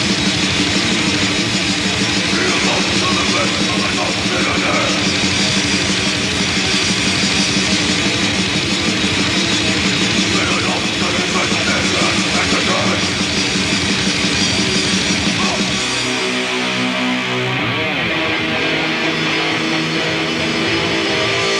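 Grindcore band playing at full volume: heavily distorted electric guitars and drums in a dense, noisy wall of sound. About three-quarters of the way through, the pounding stops and held guitar notes ring on, with one bending pitch.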